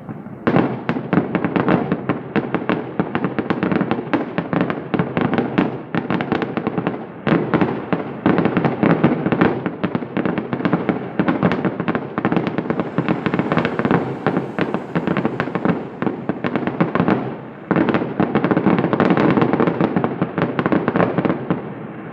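Fireworks going off in a dense, rapid run of crackling bangs that starts about half a second in, with brief lulls around seven seconds and near eighteen seconds.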